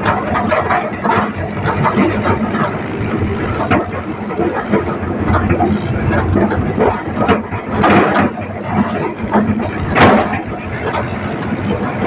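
Tractor engine running under way, with continuous clattering and rattling knocks and a couple of louder bangs near the end.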